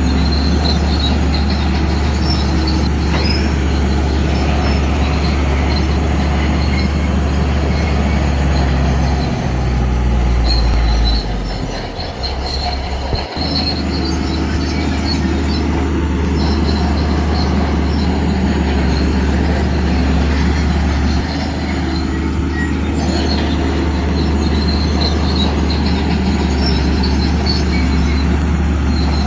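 Shantui crawler bulldozer's diesel engine running steadily under load, with high metallic squeaks from the steel tracks. About ten seconds in the engine note shifts and dips briefly, then steadies again.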